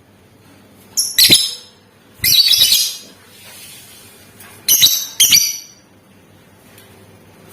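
Lovebird giving short, shrill, harsh chattering calls in three clusters a second or two apart.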